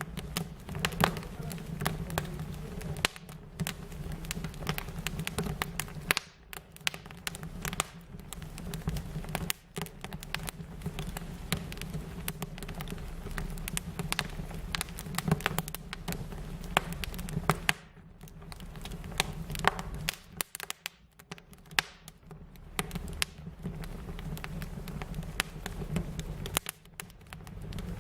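Fire crackling: frequent sharp pops and snaps over a steady low rumble, with a few brief lulls.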